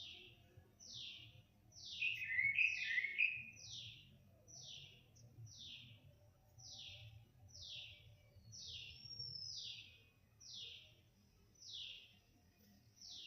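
A bird calling over and over with a high note that sweeps downward, roughly one call a second. About two seconds in, a burst of twittering chirps, the loudest part, comes in over it for a second or so.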